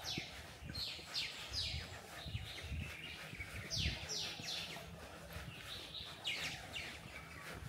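A bird calling over a low rumble: quick falling chirps in runs of two or three, repeated several times.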